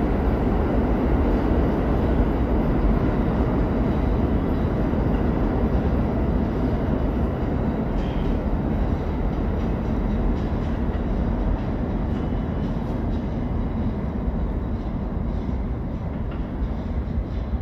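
New York City subway train in the station, a steady loud rumble of wheels and motors on the track that eases slightly toward the end.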